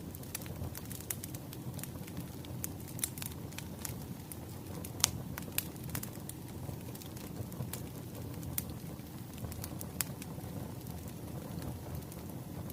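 Wood fire crackling: a steady low rumble of flames with irregular sharp pops and snaps, the loudest pops about five seconds and ten seconds in.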